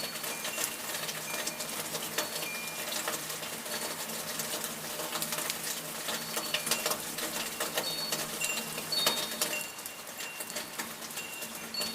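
Rain pattering steadily as a dense, fine ticking of drops, with short high-pitched tones, like chirps or chimes, scattered through it.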